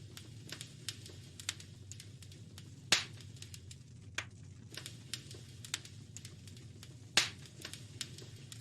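Wood fire crackling in a fireplace: irregular small pops and snaps, with two louder snaps about three seconds in and about seven seconds in, over a low steady rumble.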